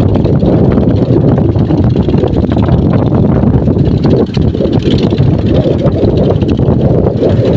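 Strong wind buffeting the microphone: a loud, continuous, gusting low rumble.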